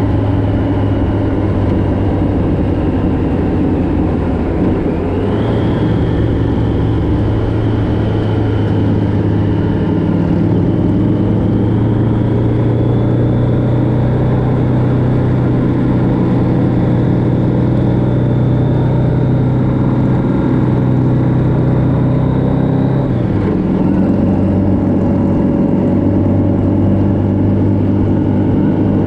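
Motorcycle engine running steadily on the road. Its pitch rises about five seconds in, holds there, and falls away again about four-fifths of the way through as the revs drop.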